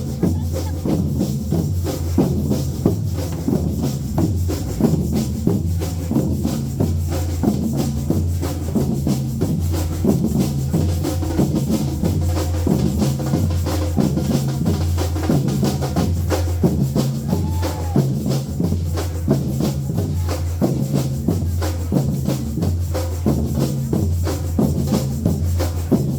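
Music from a percussion-led rhythm section playing steadily: a drum kit and rapid shaker or tambourine strokes over a repeating bass line.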